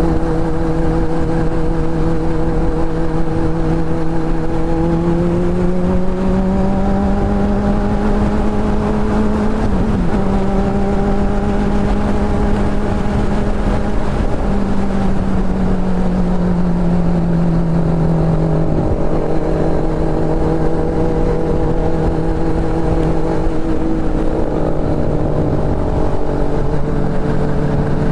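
Motorcycle engine running at cruising speed with wind rushing past. Its pitch steps up about five seconds in, wavers briefly near ten seconds, and drops back down near nineteen seconds.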